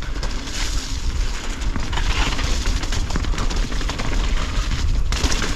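Mountain bike riding down a rough trail, heard from a camera mounted on the bike or rider: steady low buffeting rumble with rapid rattles and knocks from the bike over the bumps, and a hiss of tyres on dirt that grows stronger about five seconds in.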